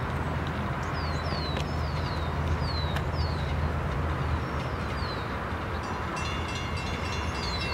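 Steady low rumble of a diesel-hauled ballast train of hopper cars rolling slowly along the track. Over it a bird repeats short, high, downward-sliding chirps, with a couple of sharp clicks in the first three seconds and a steady high ringing tone coming in about six seconds in.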